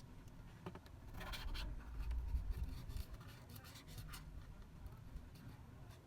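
Light scratching and small clicks of hand tools working on a phone's body and screen, busiest from about one to four seconds in.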